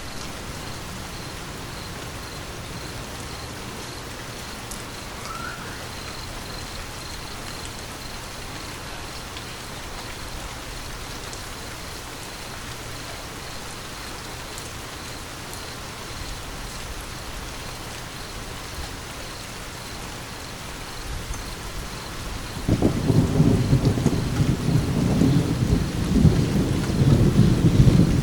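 Steady rain falling, with a loud rolling thunder rumble that builds in the last several seconds and stays loud to the end.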